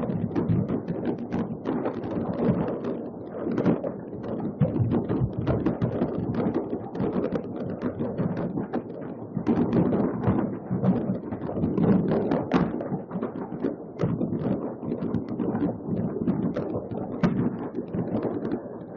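Dense barrage of distant fireworks going off all at once: countless overlapping bangs and pops merging into a continuous, rumbling crackle.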